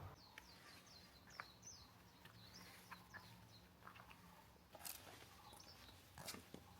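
Near silence: quiet forest ambience with faint, quick bird chirps and a few faint, scattered knocks.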